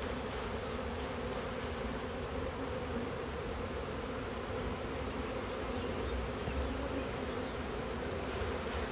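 Steady, dense buzzing of a mass of honeybees as a package of bees is emptied into a hive.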